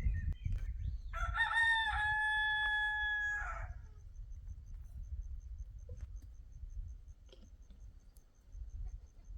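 Rooster crowing once: a single long call starting about a second in and lasting some two seconds, over a steady low rumble.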